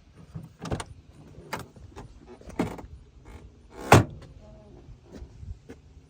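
A series of clunks and knocks, typical of a car's doors or body parts being handled, about four main ones with the loudest about four seconds in.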